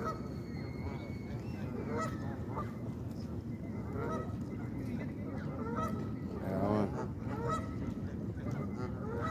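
A flock of birds being fed, calling repeatedly with short pitched calls scattered over a few seconds, over a steady low background noise.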